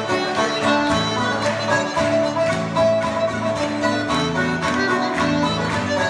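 Ceilidh band playing a lively traditional dance tune led by fiddle, with plucked strings and a steady beat.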